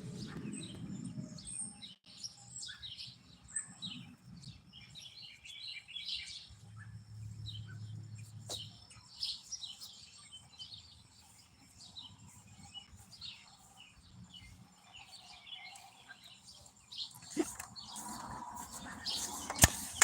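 Many birds chirping and calling in short, quick notes throughout, with two sharp knocks near the end.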